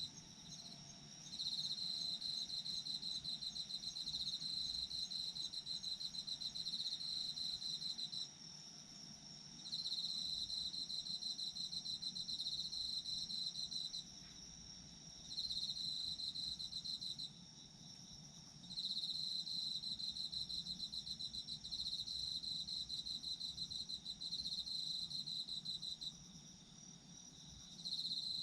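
Autumn crickets calling: one chirps in rapid pulsed trains lasting several seconds, with short pauses between bouts, over a steady unbroken higher trill from another insect.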